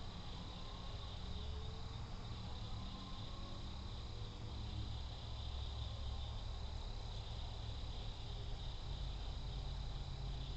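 Steady, high-pitched insect trilling that runs on without a break, over a low rumble.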